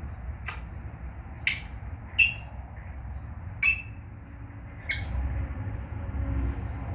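African grey parrot giving five short, sharp chirps and clicks, spaced irregularly about a second apart.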